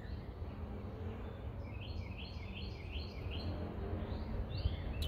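A small bird singing a quick series of short, repeated chirps, starting about two seconds in and coming again near the end, over a steady low rumble of outdoor background noise.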